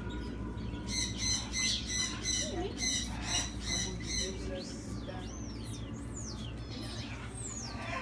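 Caged store birds calling: a quick run of short repeated squawks, about three a second, then whistled calls that slide up and down in pitch.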